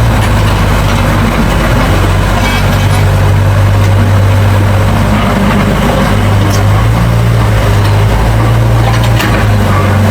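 Heavy diesel engine of earthmoving machinery running steadily under load as soil is pushed, with a deep hum that rises a little about six seconds in. A few faint clicks sound over it.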